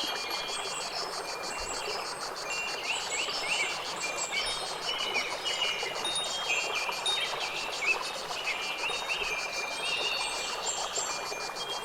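A nature soundscape of many birds chirping and singing in quick short calls over a steady rushing hiss, with high ringing tones among them.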